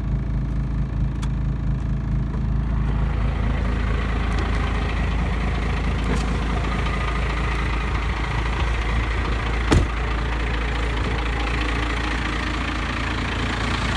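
12-valve Cummins inline-six diesel of a 1995 Dodge 3500 idling through a 5-inch straight-pipe exhaust just after a cold start, running rough ("not happy"); the owner puts his poor cold starts down to a turned-up injection pump and, he thinks, leaky injectors. The diesel clatter fills out about two to three seconds in, and a single sharp click sounds near the end.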